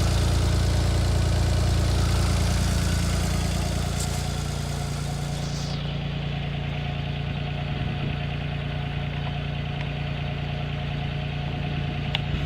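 2004 Arctic Cat T660 Turbo snowmobile's four-stroke turbocharged three-cylinder engine idling steadily, easing slightly quieter after about three seconds.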